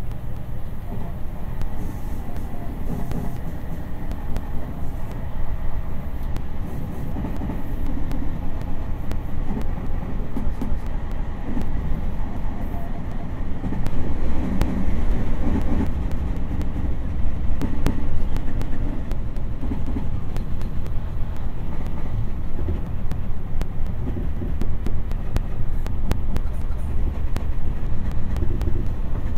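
Meitetsu electric train running at speed, heard from inside the carriage: a steady running rumble that grows louder about fourteen seconds in as an oncoming red train passes close by.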